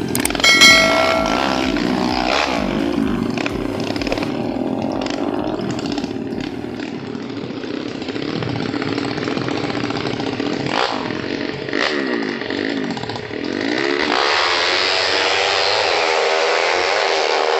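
Tuned 200cc racing motorcycle engines, a modified automatic scooter and an underbone, revving hard in a drag run, their pitch rising and falling repeatedly. A short shrill tone sounds about a second in, the loudest moment.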